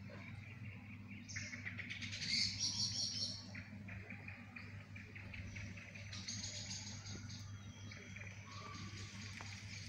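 Small birds chirping in rapid high calls, busiest and loudest about two to three seconds in and picking up again in the second half, over a low steady hum.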